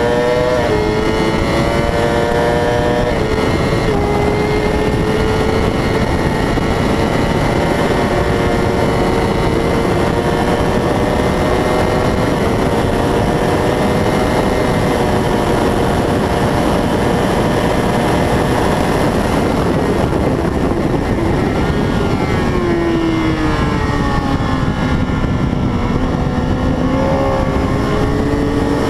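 A 600 cc racing motorcycle engine at high revs over a loud rushing noise. Its pitch steps up a few times in the first seconds as it shifts through the gears and holds high, then falls away for several seconds about three-quarters of the way through as the bike slows for a corner, and climbs again near the end.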